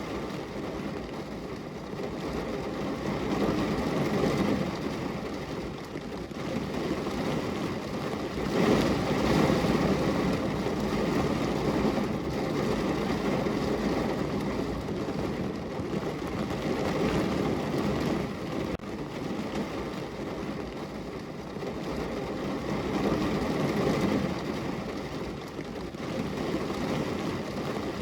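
Heavy rain drumming on a car's roof and windows, heard from inside the car: a dense, steady patter that swells and eases every few seconds.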